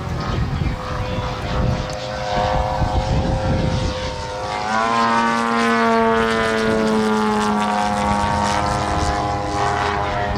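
Propeller-driven radio-controlled model airplane flying by. Its engine tone grows louder about halfway through and then gradually falls in pitch, with low wind rumble on the microphone in the first few seconds.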